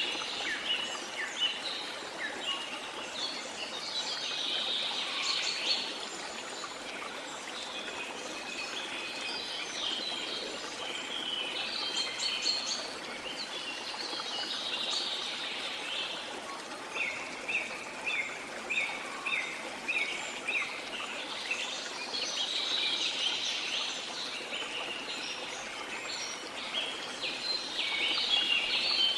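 Several jungle birds chirping and calling over the steady rush of running water. Partway through, one bird repeats a short note about twice a second for several seconds.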